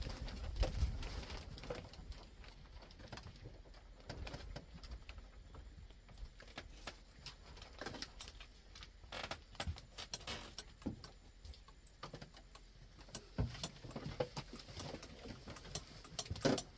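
Scattered small clicks, taps and knocks of cups, spoons and containers being handled while honey and lemon are added to two cups of tea, with a denser clatter near the end.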